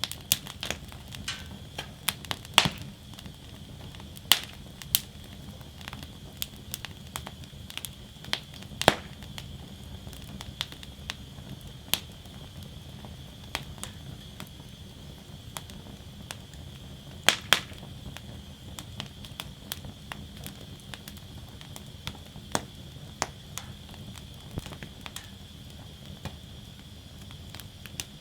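Wood fire burning in a fire basket, crackling with irregular sharp pops over a steady low hiss, a handful of pops much louder than the rest.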